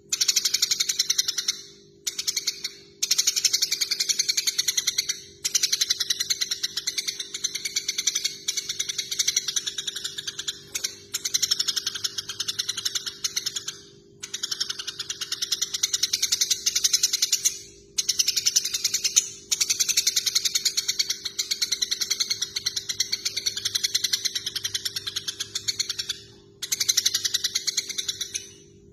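Eurasian tree sparrows chattering in rapid, dense bouts of a few seconds each with brief pauses between them: the agitated calls of sparrows fighting. A faint steady hum runs underneath.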